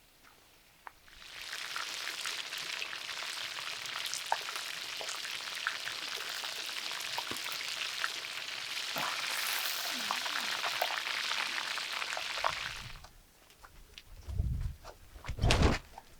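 Food deep-frying in hot oil, a steady sizzle with crackles that starts about a second in and cuts off sharply near the end. A few loud, low thumps follow.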